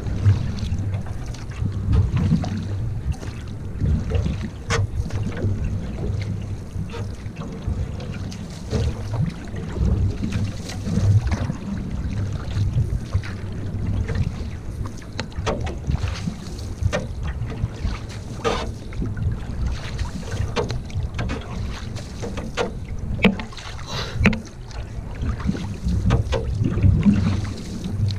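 Canoe out on the water with wind rumbling heavily on the microphone, and scattered splashes, drips and knocks throughout.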